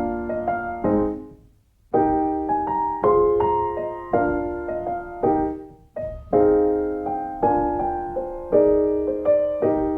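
Slow background piano music: chords and melody notes struck and left to ring, in short phrases with a brief pause about a second and a half in. The last chord rings out near the end.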